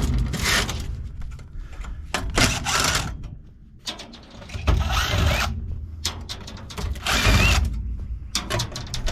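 A power screwdriver running in about four short bursts, backing screws out of a golf cart charger's sheet-aluminium case, with small metal clicks and rattles between the bursts.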